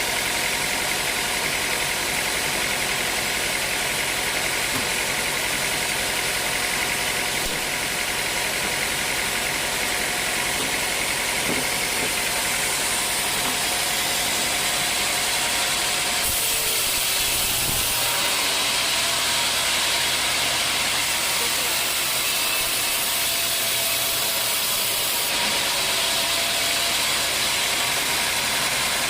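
Sawmill running steadily as its saw cuts dry old teak: an even mechanical drone with a dense hiss over it. The sound shifts about halfway through and again near the end.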